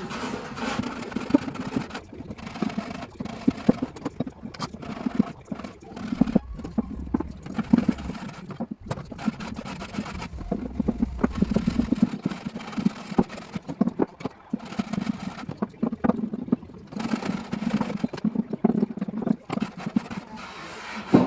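A plane trimming the top edges of plywood flush, worked in repeated strokes with scraping and clicks between passes.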